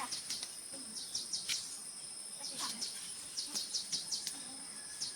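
Rural outdoor ambience: insects keep up a steady, high-pitched drone, while clusters of quick, high chirps from birds come every second or so.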